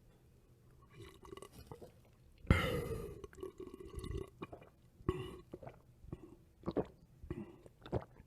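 A person drinking: a string of short gulps and swallows, the loudest about two and a half seconds in.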